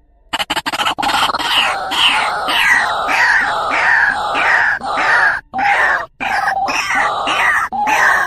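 White-breasted waterhen (truwok) calling loudly: a quick run of short harsh notes that runs into a continuous string of repeated falling notes, about two a second, with brief breaks near the middle and at the end. This is the call used to lure male truwok.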